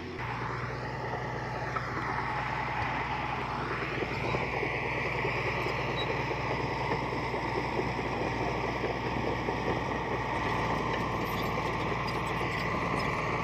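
Diesel engine of heavy earthmoving equipment running steadily, its pitch sweeping in the first few seconds and then settling.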